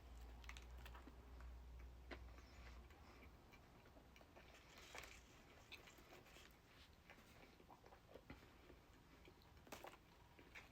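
Faint chewing with scattered small mouth clicks and smacks from someone eating.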